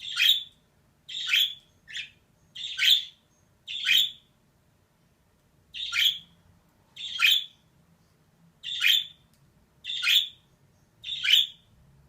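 Female budgerigar giving a string of short chirping calls, about one a second, ten in all, with a brief pause near the middle.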